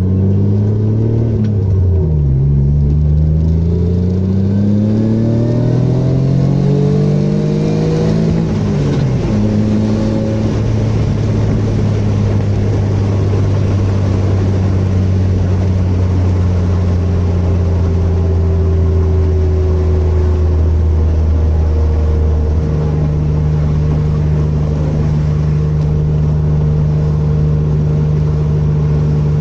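Mitsubishi 6G72 DOHC 3.0-litre V6 running with no misfire heard, now that the misfire has been fixed. Its revs rise slowly for several seconds, drop back about nine seconds in, then it idles steadily, with a slight step in pitch about two-thirds of the way through.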